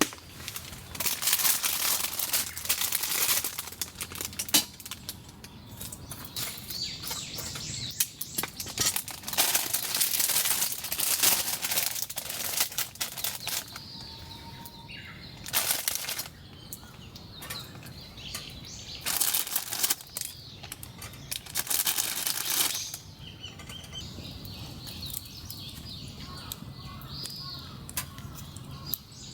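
Repeated bursts of rustling, each a second or so long, with birds chirping faintly in the pauses between them.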